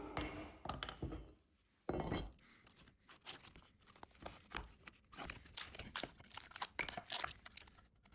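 Knocks as wood is set down, then irregular scraping and rasping strokes of hand work on a birch-plywood piece.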